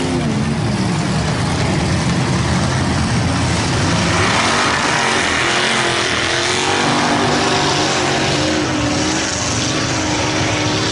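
Big-block V8 engine of a mega mud truck running hard at high revs, its pitch wavering up and down, with a dense rushing noise that thickens from about four seconds in.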